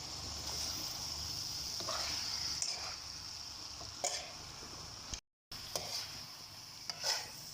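Marinated chicken pieces sizzling steadily as they fry in a pan with onion, tomato and spices, with a few light clicks and scrapes of stirring. The sound cuts out briefly about five seconds in.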